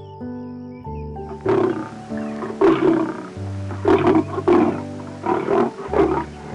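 A run of short, rough animal calls begins about a second and a half in and repeats several times, the loudest sound, over background music with steady held notes.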